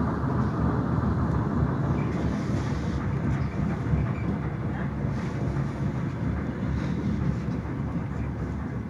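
Inside a diesel passenger train: steady rumble of the engine and wheels on the track, easing slowly as the train slows into a station stop.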